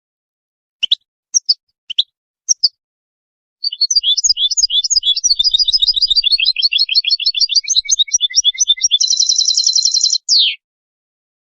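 Goldfinch mule (European goldfinch × canary hybrid) singing: a few short separate call notes, then a long run of fast twittering notes that ends in a rapid even trill and a single falling note.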